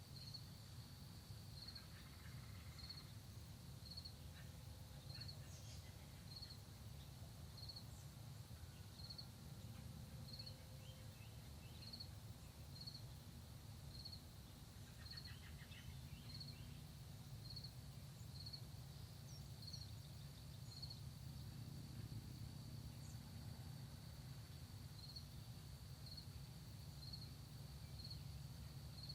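Faint rural dawn ambience. An insect chirps a little under once a second over a steady high trill, pausing for a few seconds about three-quarters through. A steady low rumble runs underneath, and there are a few faint, brief bird calls.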